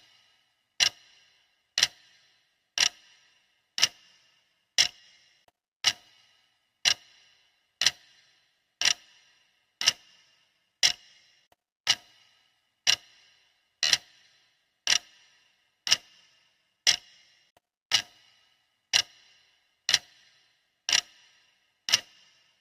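Clock ticking at one sharp tick a second, each tick followed by a short ring.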